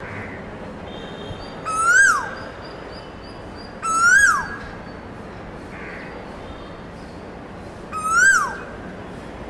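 A bird calling three times, about two seconds apart. Each call is short, rises slightly, then drops sharply in pitch, with fainter high thin bird calls between them.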